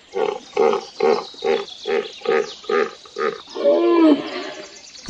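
Hippopotamus calling: a run of about eight evenly spaced grunts, a bit over two a second, ending in one longer call that bends in pitch.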